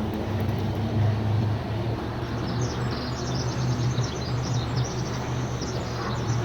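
Faint high chirps of small birds, starting about two and a half seconds in, over a steady low hum.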